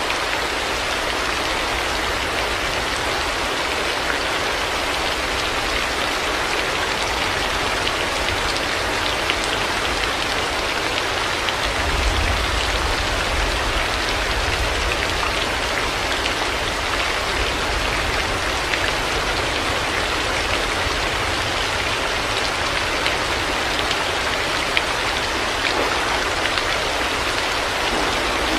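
Heavy rain falling steadily, a dense even hiss with scattered drop ticks. A low rumble swells briefly about twelve seconds in.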